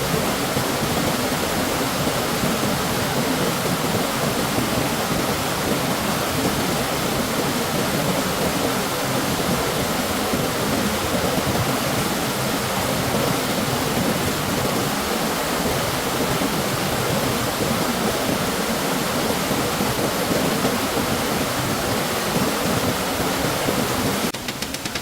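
Stream water rushing steadily. The sound drops off suddenly just before the end.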